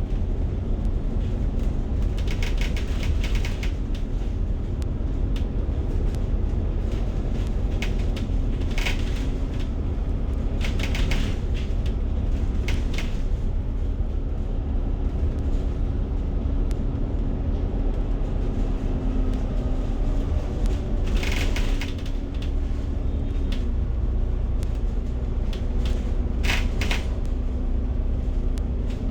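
Inside a moving bus: a steady low engine and road rumble with a constant hum, and the cabin fittings rattling in short bouts every few seconds.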